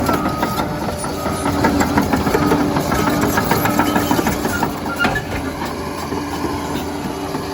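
Liebherr PR 746 crawler dozer's diesel engine running under load, with steel tracks clanking and a back-up alarm beeping in a steady repeating pattern that breaks off for a moment around the middle.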